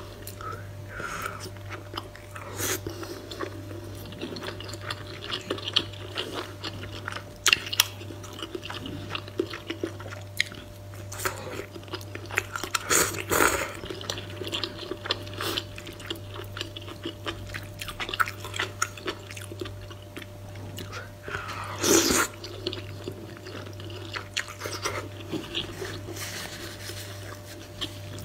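Close-miked mukbang eating sounds: a person chewing spicy noodle soup with fish cake, with many small wet clicks and a few louder bursts, the loudest about 22 seconds in. A steady low hum sits underneath.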